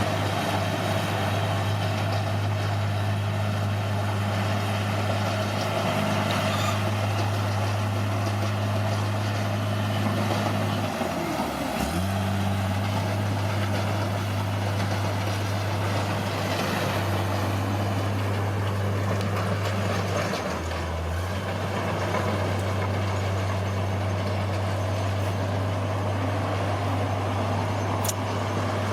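Bulldozer's diesel engine running steadily, its pitch dropping briefly twice, about a third and two-thirds of the way through.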